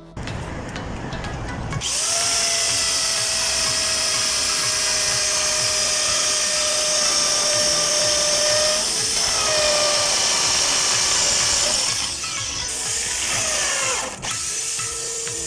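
Electric drill running under load with a steady whine, starting about two seconds in, briefly easing near the middle and winding down and back up near the end.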